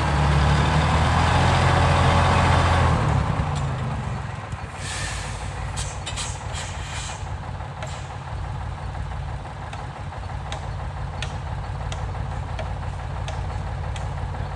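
Heavy truck's diesel engine running loud for a few seconds, then dropping to a steady idle. A few short bursts of air hiss come about five seconds in, like air brakes releasing. The idle then carries faint regular ticks.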